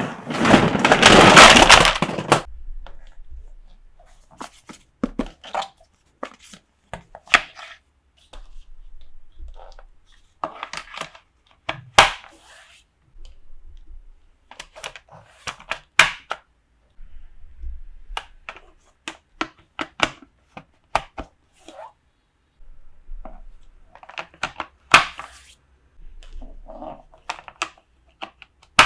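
Plastic toy pieces and packaging being handled during an unboxing. A loud, dense rustle fills the first two seconds, then comes a long run of scattered sharp clicks, light knocks and brief rustles at uneven intervals.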